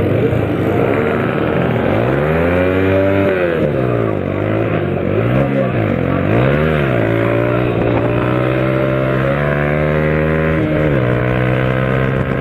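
A vehicle engine being revved: one long rev up and back down, then three quick blips of the throttle, then held at a steady raised speed that steps up slightly and drops back near the end.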